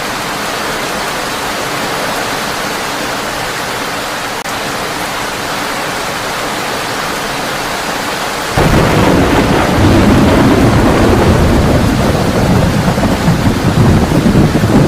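Heavy rain drumming on a tin roof as a steady hiss. A bit over halfway through, a deep, loud rumble of thunder comes in suddenly and keeps rolling under the rain.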